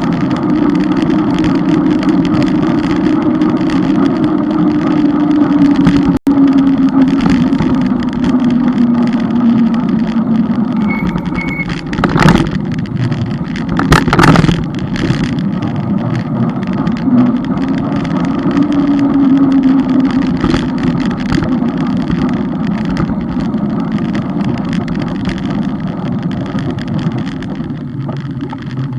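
Steady noise of a moving vehicle on the road: a low hum that slowly falls and rises in pitch over a constant rushing, with two sharp knocks a couple of seconds apart near the middle.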